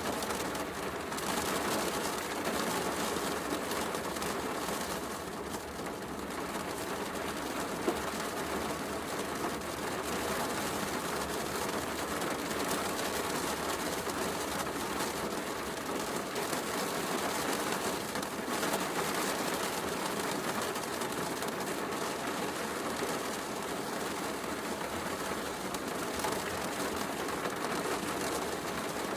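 Heavy rain falling steadily, mixed with a fireplace crackling softly, with one sharper pop about eight seconds in.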